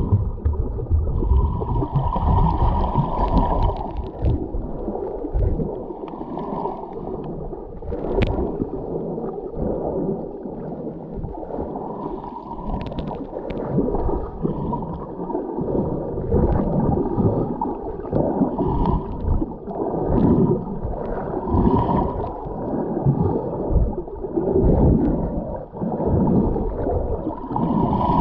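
Scuba diver breathing through a regulator, heard underwater: a hiss of inhaled air alternates with gurgling, rumbling bubbles of exhalation, repeating every few seconds.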